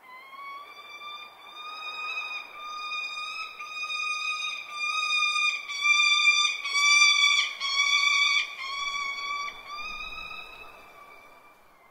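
One long held high note, rich in overtones, wavering slightly. It grows louder toward the middle and fades away near the end.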